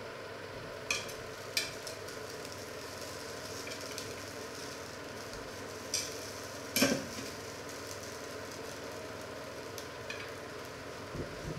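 Breaded chicken cordon bleu cutlets frying with a steady sizzle in a ridged grill pan, with a few sharp clicks of metal tongs against the pan as the cutlets are turned; the loudest knock comes about seven seconds in.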